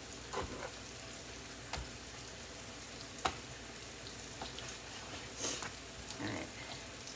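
Mushrooms sizzling steadily as they sauté in a frying pan, with five short clicks and knocks of kitchen utensils spread through.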